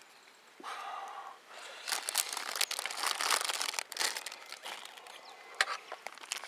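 Crinkling and rustling of something being handled, with sharp clicks, busiest from about two to four seconds in.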